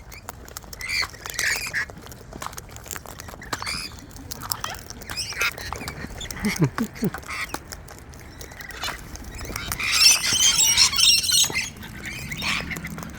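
Wild cockatoos calling with short squawks while feeding, over scattered small clicks and taps, then one loud, harsh screech lasting about a second and a half near the end.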